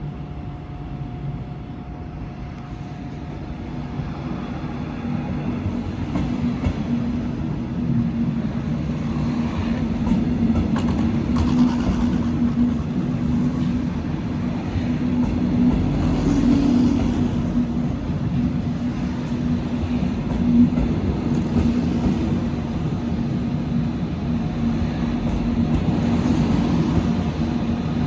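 A train running past on the station tracks, growing louder over the first eight seconds or so and then running steadily, with a steady hum and scattered clicks from the wheels.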